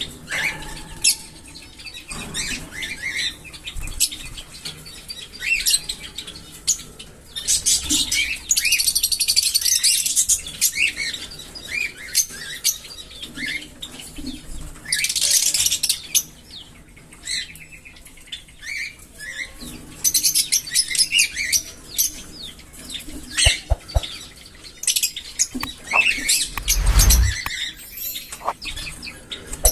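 A flock of small pet parrots chattering and chirping: many short high chirps, with bursts of dense chatter every few seconds.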